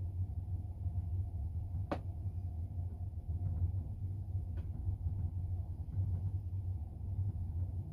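Passenger train carriage running along the track, heard from inside: a steady low rumble of wheels on rail, with one sharp click about two seconds in and a fainter one a few seconds later.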